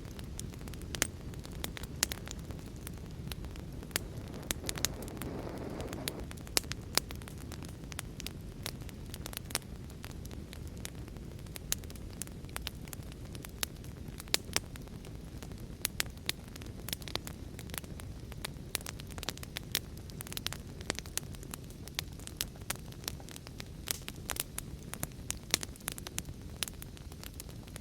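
Wood fire crackling in a fireplace, with frequent sharp, irregular pops over a steady low rushing background, which swells briefly about five seconds in.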